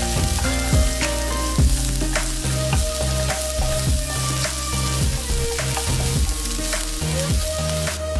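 Sliced onion, cashews and garlic frying in oil in a non-stick pan, with a steady sizzle as a wooden spatula stirs them.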